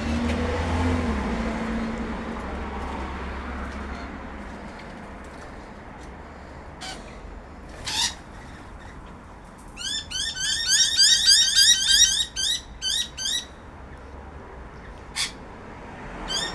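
Birds calling, the loudest a rapid run of rising, squeaky chirps for about three and a half seconds past the middle, with a few single calls around it. A low vehicle rumble fades out during the first few seconds.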